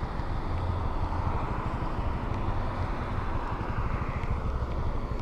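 Honda Navi's small single-cylinder engine running steadily at low revs, with a steady haze of wind and road noise over it.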